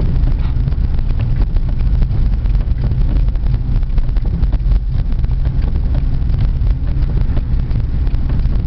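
Steady low rumble of a car's engine and tyres heard from inside the cabin while driving on a snowy road, with faint crackle over it.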